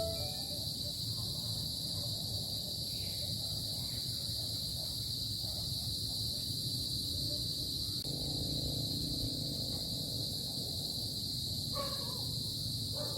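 Crickets or other insects chirring in one steady high-pitched drone over a low, even rumble, with a couple of faint brief calls near the end.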